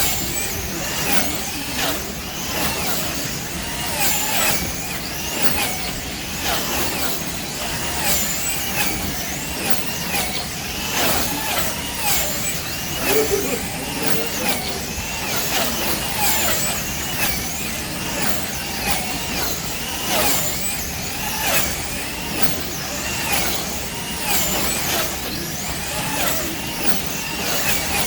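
Electric slot cars racing around the track: high motor whines that rise and fall as the cars speed up and brake through each lap, repeating about every two seconds, with clicking and rattling.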